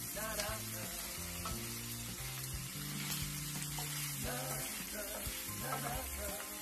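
Pork sisig with chilies and green onions frying in a pan, a steady sizzle, under background music.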